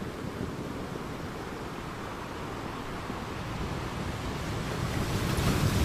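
Ocean surf washing onto the beach with wind on the microphone, a wave swelling louder near the end.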